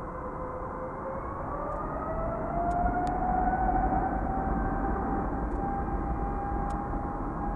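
Boeing 777F freighter's GE90 turbofans spooling up: a whining tone climbs over the first three or four seconds and then holds steady over a loud engine noise that grows louder.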